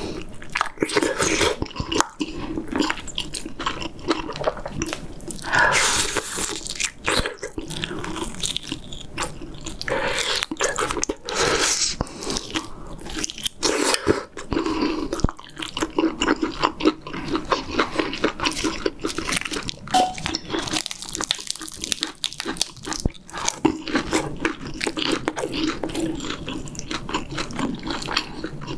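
Close-miked eating sounds: a man chewing braised pork back ribs and stewed kimchi with his mouth full, with wet smacking and crunching that goes on throughout.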